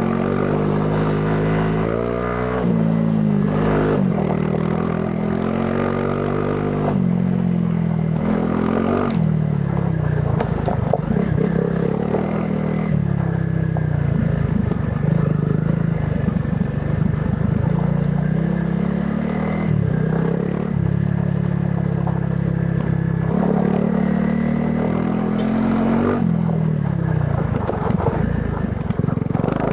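Honda CRF300 Rally's single-cylinder engine running through its stock exhaust, its pitch rising and falling every few seconds as the throttle opens and closes through the gears. Bursts of clatter from the bike over rough ground twice, about ten seconds in and again near the end.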